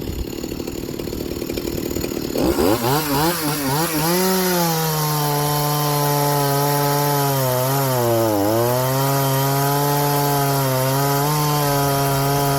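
Small two-stroke chainsaw running at idle, then revved up about two seconds in and held at high speed, wavering as it climbs. Its pitch dips briefly near the middle before it climbs back and runs steady.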